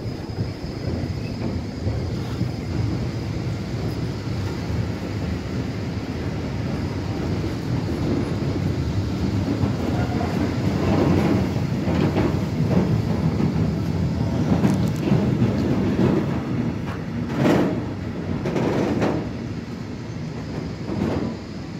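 Freight train of flat wagons loaded with steel wire coils rolling past, a steady rumble with wheels clattering over rail joints, the clatter heavier in the second half. The sound drops near the end as the last wagons move off.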